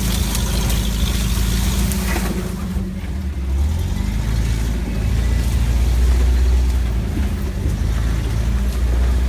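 Motor vehicle engine running under load while driving, a steady low drone with rough rattling noise over it, easing briefly about three seconds in.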